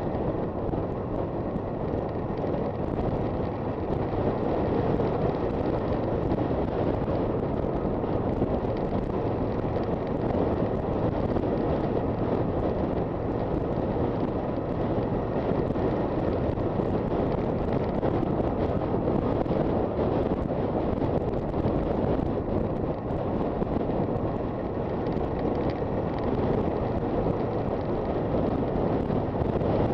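A Honda FT400 single-cylinder motorcycle being ridden at a steady pace, with its engine running under heavy wind rush on the microphone.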